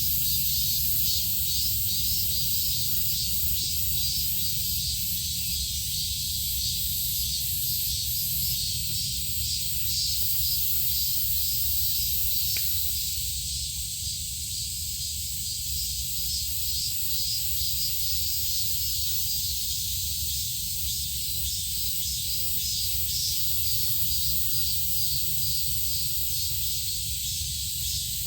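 Steady shrill insect chorus with a fast flicker, over a continuous low rumble.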